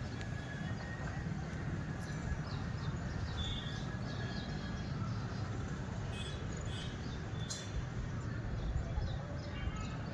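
Outdoor ambience: birds calling and chirping in short scattered notes over a steady low rumble.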